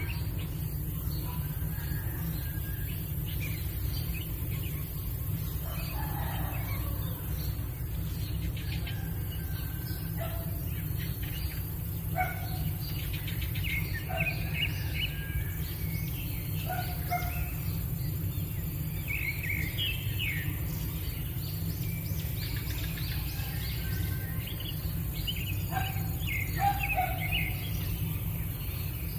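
Birds chirping and calling in short, scattered calls, some falling in pitch, over a steady low rumble.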